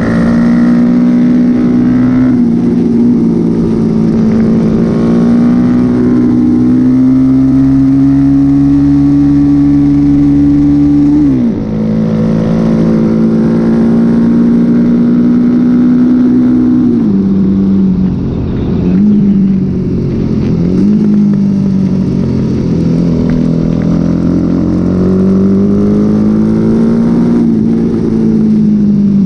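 Honda XL motorcycle engine running hard under race throttle. Its note climbs slowly, then drops sharply about eleven seconds in. Later it dips quickly a few times as it comes off the throttle or shifts, then climbs again.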